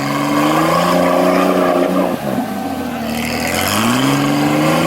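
Off-road 4x4's engine revving under power: the pitch climbs in the first second, holds, drops away about two seconds in, then climbs again near the end.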